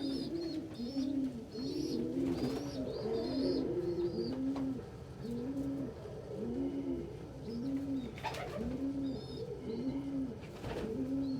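Domestic pigeons cooing in a loft: a steady run of low rising-and-falling coos, more than one a second, with bursts of high chirping and a few soft knocks.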